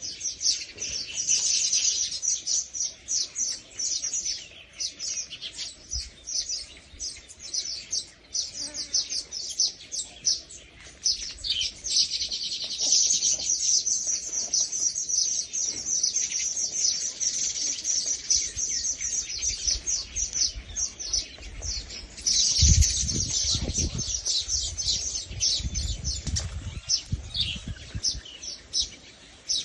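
Many small birds chirping rapidly and without pause, a dense mass of high, quick calls. About three-quarters of the way through, low rumbling thumps come in underneath.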